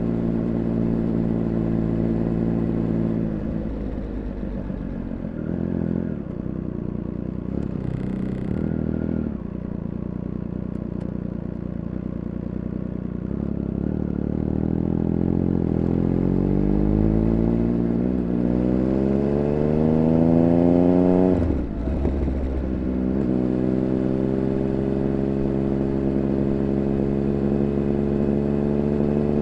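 Triumph Speed Triple 1200 RR's inline three-cylinder engine, heard from on the bike. It runs steadily, eases off for several seconds, then climbs in a long rising pull through the revs that is cut by an upshift about two-thirds of the way in, and settles back into steady running.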